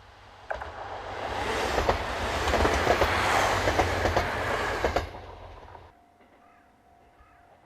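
Diesel railcar passing close by at speed, its wheels clattering rapidly over the rail joints. The noise starts abruptly about half a second in and dies away after about five seconds.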